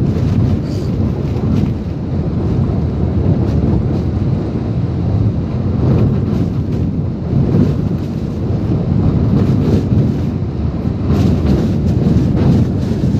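Typhoon wind blowing hard, a loud low rumble of wind on the microphone that surges and eases with the gusts.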